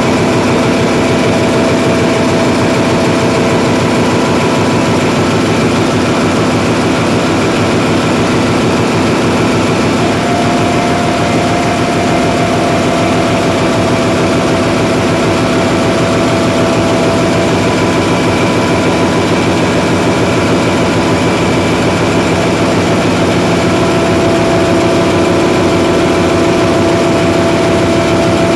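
Hyundai Himsen diesel generator engine running steadily and loudly, a dense engine-room din with several steady tones in it. One tone grows stronger about ten seconds in, and another, lower one joins near the end.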